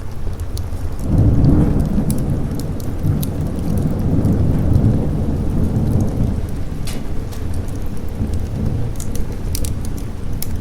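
Rolling thunder rumbles over steady rain, swelling about a second in, surging again midway and then fading. Scattered light crackles sound throughout.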